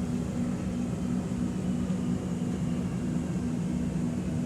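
Cabin hum of an X'Trapolis 2.0 electric train standing at a station: a steady low drone with a low tone pulsing on and off about three times a second.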